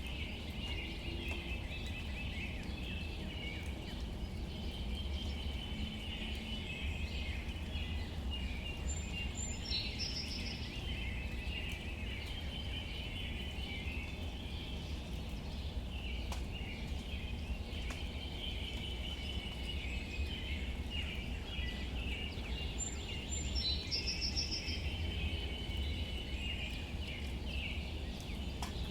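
Outdoor nature ambience: a steady chorus of small chirps and trills, with a brief higher bird call about a third of the way in and again later, over a low rumble.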